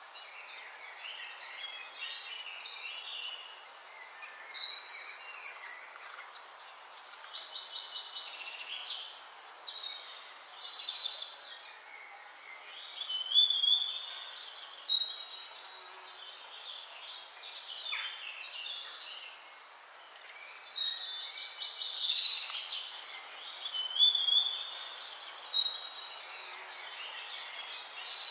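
Several birds singing and calling together: overlapping chirps, trills and whistles over a steady hiss, in louder bursts every few seconds.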